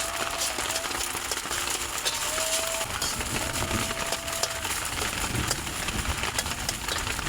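Fried rice sizzling in a pan over a campfire: a steady frying hiss with many fine crackles. A few short whistle-like notes sound over it, and a low rumble comes in during the second half.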